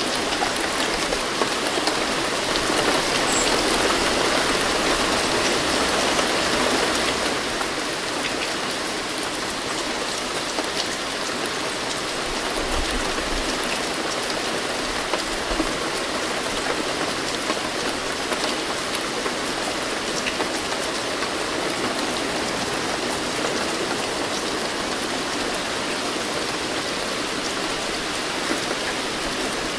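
Steady rain falling on a surface, a dense even hiss with many fine drop ticks, a little heavier for the first several seconds.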